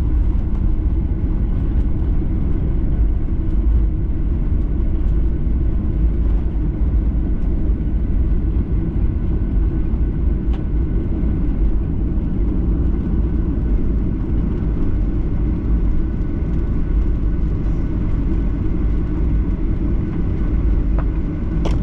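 Steady low rumble heard inside the cabin of a Boeing 737-800 on the ground after landing, from its engines and its rolling on the runway or taxiway. A short click sounds near the end.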